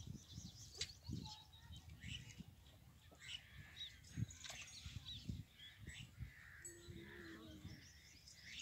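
Faint chirping of small birds, many short high calls scattered throughout, with a few soft low thumps and a brief low hum around 7 seconds in.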